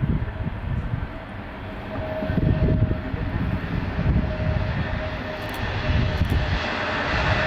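Jet engines of an Airbus A321neo (Pratt & Whitney PW1100G geared turbofans): a steady whine over a low rumble, with a rushing hiss that grows louder in the second half as the aircraft comes closer.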